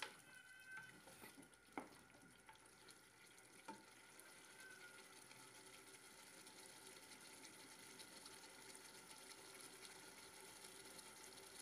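Faint sizzle of mutton and potatoes frying in oil in a pot, with a few sharp knocks of a wooden spoon against the pot in the first four seconds.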